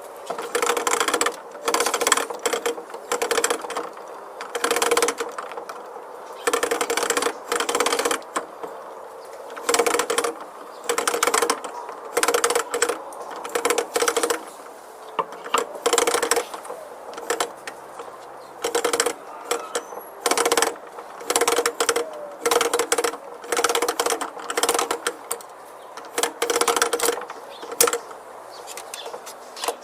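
Small locks rattling and clicking in repeated short bouts as a parrot works at them with its beak, fiddling the mechanisms to open them.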